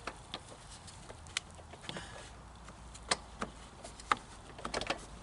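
A few separate sharp clicks and light knocks of mower parts and tools being handled during assembly, with a quicker run of clicks near the end.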